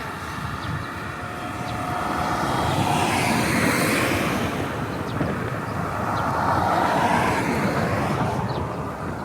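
Two vehicles passing one after the other, each swelling and fading, the first loudest about four seconds in and the second about seven seconds in.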